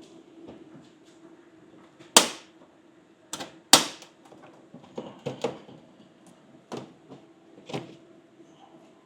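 Access panel of a heat recovery ventilator (HRV) being unlatched and opened: sharp latch snaps about two seconds and nearly four seconds in, then lighter knocks and rattles as the panel is handled. A steady machinery hum runs underneath.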